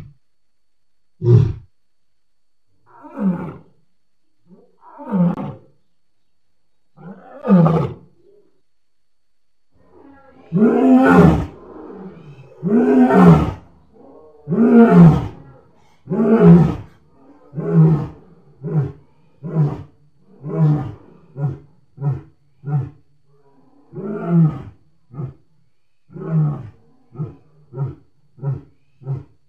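A lion's roaring bout: a few shorter calls about two seconds apart, building to four long, full roars, then a run of short calls that grow briefer and come faster toward the end.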